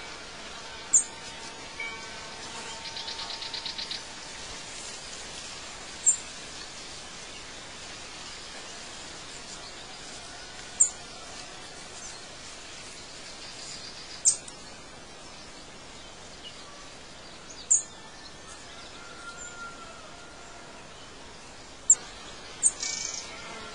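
Outdoor bird ambience: short, sharp high chirps every few seconds over a steady hiss, with a fast rattling trill about three seconds in and faint whistled notes.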